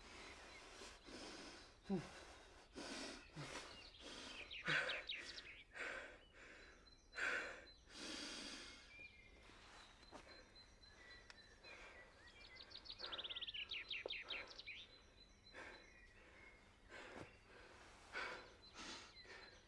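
A person breathing heavily and unevenly in short, separate gasps and breaths. A faint, rapid high trill comes in twice, briefly about a third of the way in and longer past the middle.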